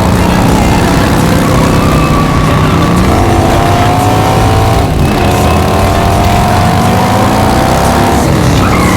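Car engine sound at high revs, its pitch climbing slowly and dropping at shifts about three and five seconds in, then falling away near the end.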